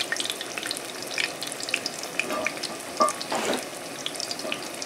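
Flour-and-cornmeal-battered egg patties shallow-frying in hot oil in a skillet: a steady sizzle with irregular crackles and pops, one sharper pop about three seconds in.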